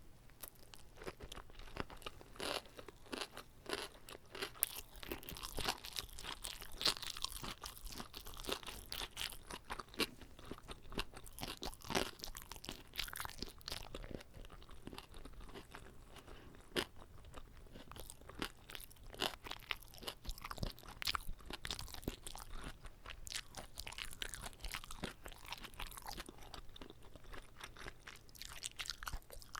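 Close-up eating sounds of a whole gimbap roll: steady chewing with many sharp, crisp crunches and clicks.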